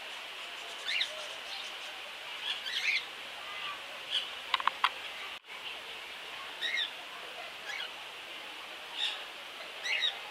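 Birds calling in short chirps and whistles, one every second or so, over a steady high background hiss. A quick run of three sharp pips comes a little before halfway, and the sound briefly cuts out just after.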